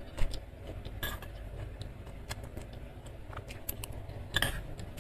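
Close-up chewing of soft fried tofu in sauce with the mouth closed, with a few sharp clicks and clinks from a metal spoon. The loudest click comes just after the start, another about a second in, and one near the end.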